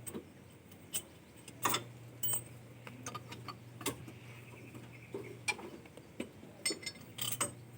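Scattered, irregular clicks and light clinks of small hard objects being handled, over a faint steady low hum.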